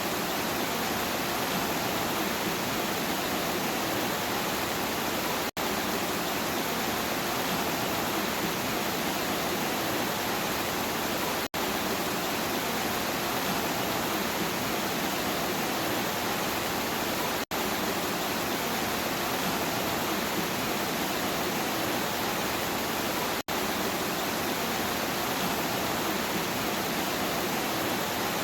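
Steady heavy rain as an even rushing hiss, cut by a very brief dropout about every six seconds (four times), where a short rain recording loops.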